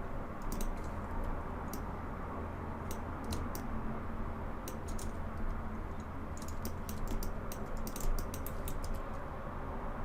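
Computer keyboard keystrokes and clicks in irregular clusters, sparse at first and coming thick and fast in the second half, over a steady low hum.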